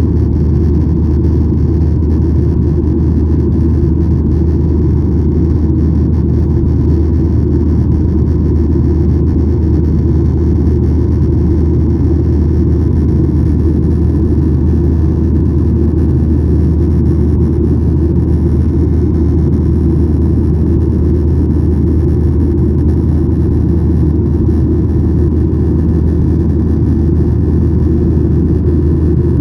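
Steady low rumble inside the cabin of a Boeing 737-900ER in flight: its CFM56-7B turbofan engines running and air rushing past the fuselage, with no change in pitch or level.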